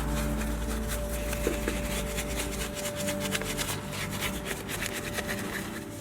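Rapid rasping scrubbing strokes of a detailing brush rubbing over a car surface.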